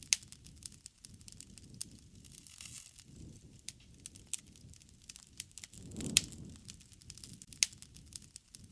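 Wood fire crackling: scattered sharp pops and snaps, the loudest just after the start and again near the end, over a soft low rush of flame that swells about six seconds in.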